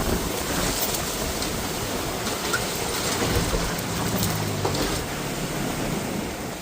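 Boat motor running under a heavy wash of rushing water and wind noise, with a low engine hum showing through midway. It eases off near the end.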